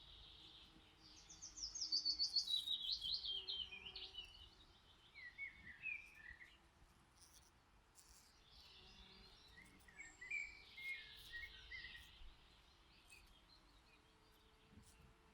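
A songbird singing: a fast run of bright notes stepping down in pitch about a second in, then a few shorter phrases of lower notes around five seconds and again around ten to twelve seconds.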